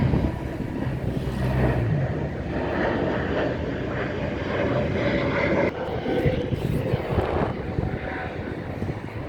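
Boeing 777 jet engines at takeoff thrust: a steady, dense roar with a faint whine running through it.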